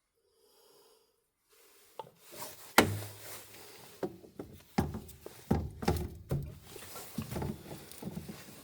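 Parts and tools being handled at close range: after about two seconds of near quiet, an irregular string of clicks, knocks and rubbing sets in, the sharpest click just under a second later.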